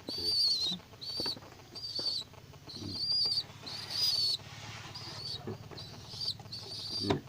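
A bird calling with a steady run of short, high-pitched chirps, roughly one or two a second.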